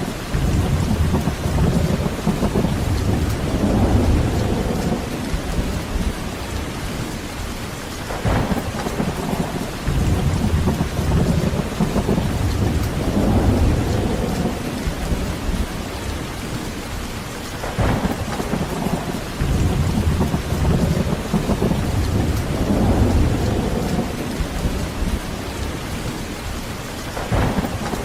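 Heavy rain falling steadily with rolling thunder. About every nine seconds a sharp crack sets off a low rumble that builds and then fades over several seconds.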